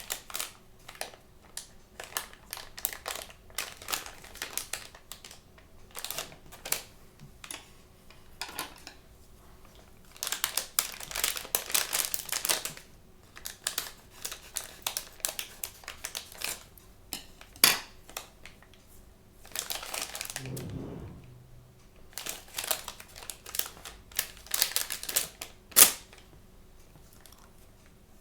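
Blind-bag toy packaging being handled and opened: plastic crinkling and rustling with many small sharp clicks. There are dense bursts of crinkling about a third of the way in and again near the end, and two single louder clicks.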